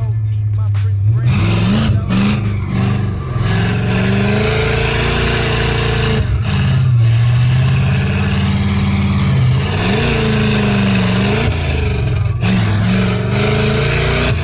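Car engine heard from inside the cabin while driving, revving up and easing off several times over a steady low drone.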